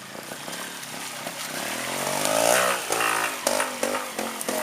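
Trials motorcycle engine working at low revs through a section, its revs climbing to a peak about two and a half seconds in and falling away, then picking up briefly again, with scattered sharp clicks.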